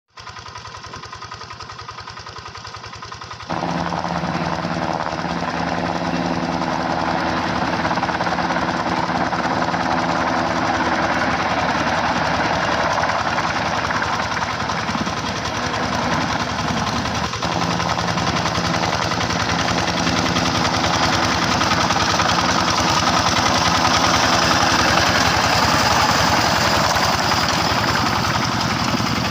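Rice-field hand tractor's engine running steadily with a knocking beat. It gets markedly louder about three and a half seconds in and stays loud, with a brief dip in its beat a little past halfway.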